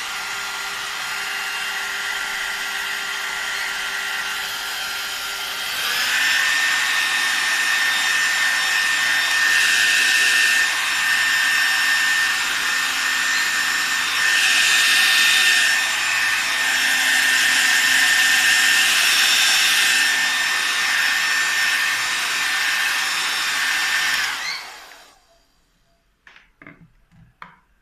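1977 Clairol 1200 two-speed hair dryer running, a steady rush of air with a thin motor whine. About six seconds in it steps up to its louder, higher-pitched second speed, swelling louder a few times. Near the end it is switched off and the whine falls away, followed by a few faint clicks.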